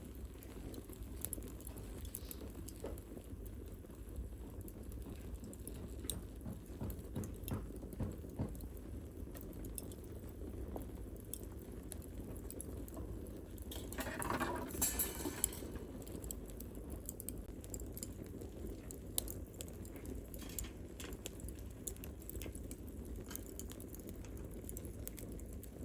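Wood campfire burning, crackling with scattered small pops over a low steady rush. A louder rustling rush comes about fourteen seconds in and lasts a second or so.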